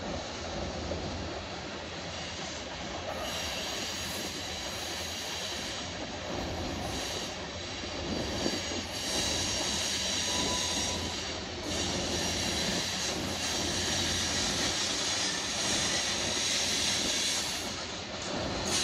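BNSF freight train's covered hopper and tank cars rolling past on a curve, steel wheels on the rails. A high squeal from the wheel flanges grinding on the curved track comes in about three seconds in and carries on.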